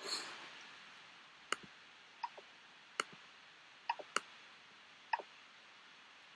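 Computer mouse clicks, about six sharp single clicks spaced irregularly, over a faint hiss, after a short rush of noise at the very start.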